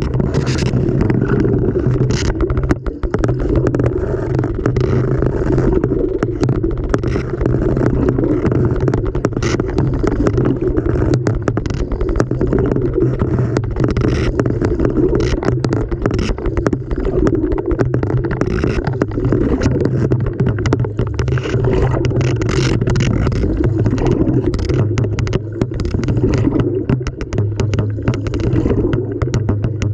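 LG washing machine drum turning, heard from inside the drum: a steady low rumble with churning water, broken by frequent sharp knocks and clicks as the load tumbles against the drum.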